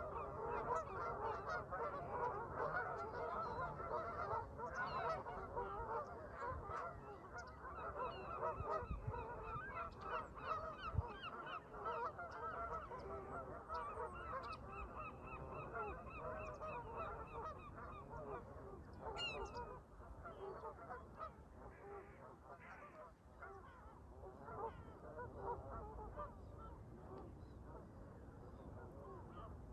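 Flock of Canada geese honking, many calls overlapping at once, growing sparser and quieter after about twenty seconds.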